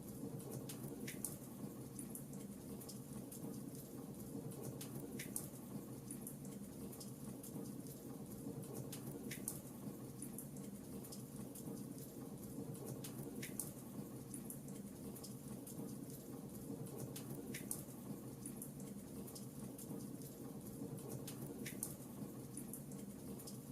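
Fireplace fire crackling: a steady low rumble with scattered small ticks and a louder sharp pop about every four seconds.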